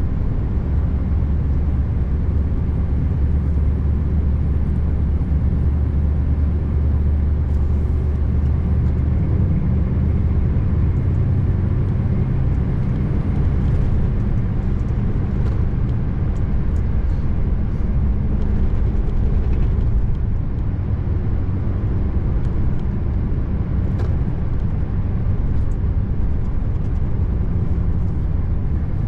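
Scania R590 truck's 16-litre V8 diesel pulling the rig at road speed, a steady low drone with tyre and road noise. The engine note shifts about ten seconds in.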